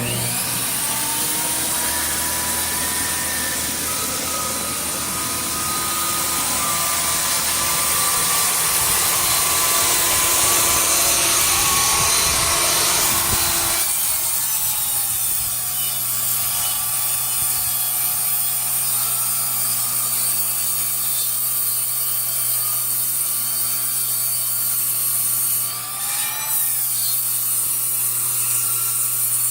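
Power saw ripping a yellow poplar board along the fence. The sound starts abruptly and runs loud and steady. About halfway through the low rumble drops away, leaving a steadier hum with a high whine.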